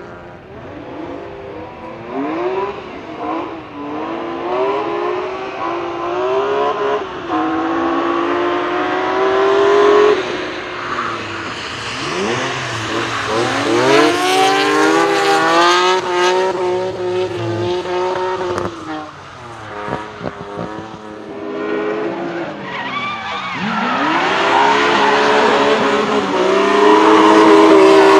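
BMW E30 drift car's engine revving hard, its pitch dropping and climbing again several times as the throttle is worked through the slide, with tyres squealing. It is loudest near the end.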